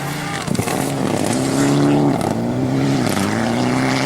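Rally car engine running hard at high revs, its pitch climbing and then dropping back sharply twice, as at gear changes. A sharp crack about half a second in.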